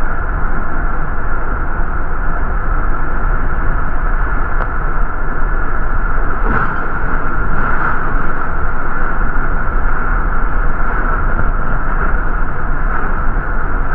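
Steady rumble and hiss of a New York City MTA bus heard from inside while it rides, with a constant hum running through it and a few faint knocks or rattles.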